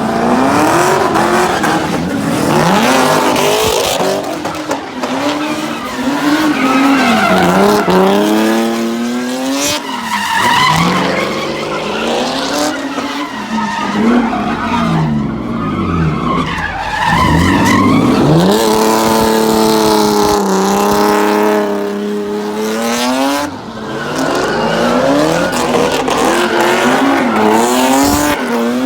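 Car engine revving hard, its pitch rising and falling again and again, with tyres screeching.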